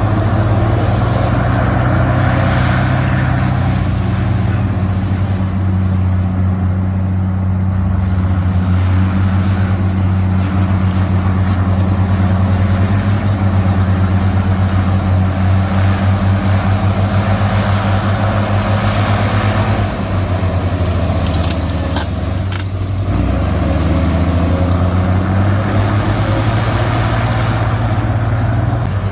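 Komatsu crawler bulldozer's diesel engine running under working load, a steady low engine note that rises and falls in pitch several times as it pushes dirt. A few sharp metallic clanks are heard about three-quarters of the way through.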